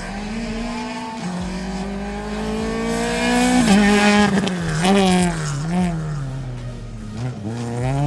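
Rally car engine revving hard under acceleration, its pitch climbing for a couple of seconds and loudest near the middle. The revs then rise and fall quickly several times before climbing again near the end.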